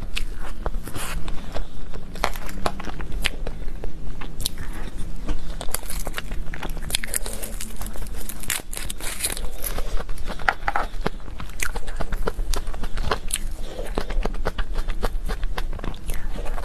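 Close-miked biting and chewing of cake and chocolate desserts: wet mouth sounds with many irregular sharp crunchy crackles.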